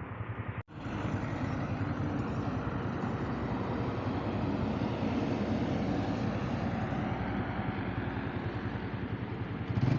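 A motorcycle engine running steadily with an even low throb, amid road traffic noise. The sound drops out for an instant about half a second in.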